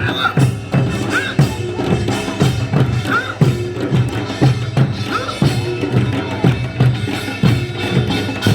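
Korean folk percussion playing a steady rhythm, with drum strokes about three a second and short rising pitched sounds over them.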